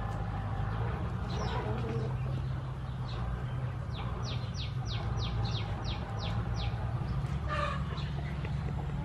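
Birds outdoors: a rapid run of about ten short, falling chirps in the middle, and a chicken clucking near the end, over a steady low hum.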